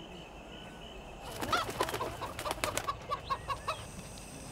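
Bird calls: after a quiet stretch, a quick run of short repeated notes starts about a second and a half in and stops shortly before the end.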